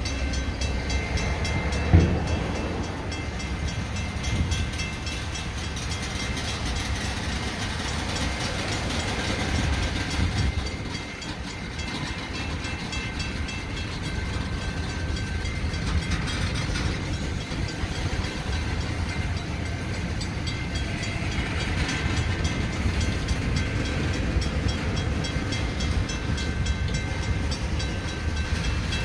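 Freight train of covered hopper cars rolling past a grade crossing: a steady rumble of wheels on the rails, with one sharp knock about two seconds in.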